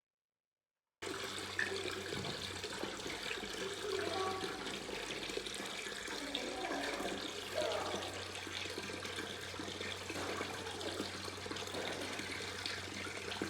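Water running steadily, with an even rushing noise that starts abruptly about a second in.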